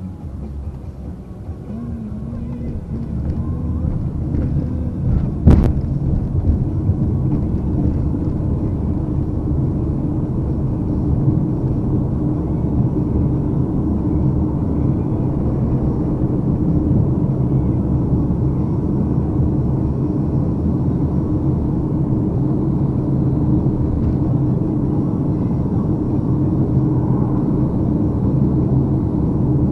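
Steady low rumble of a car's engine and road noise, muffled by the camera sitting inside a bag, with one sharp knock about five and a half seconds in.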